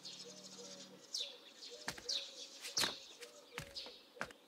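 Small birds chirping: short, high, falling chirps repeated about every half second, with a few faint knocks in between.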